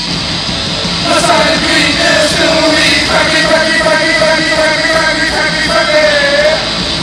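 Live rock band playing loudly, with a singer's voice coming in about a second in and holding long notes.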